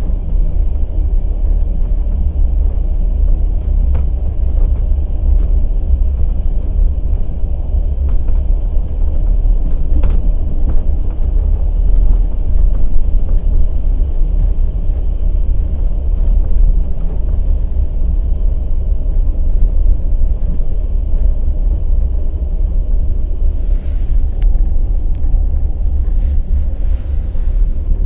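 Passenger train under way, its wheels running over the rails: a loud, steady, deep rumble with scattered clicks of wheel clatter. Brief hissing rushes come near the end.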